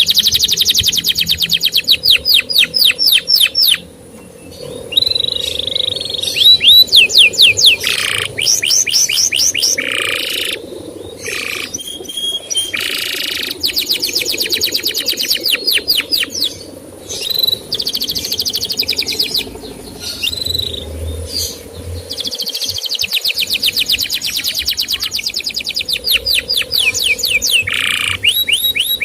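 Male canary singing. It runs fast trills of one repeated rising chirp, about ten a second, in phrases a few seconds long, with brief pauses and a few held notes between them.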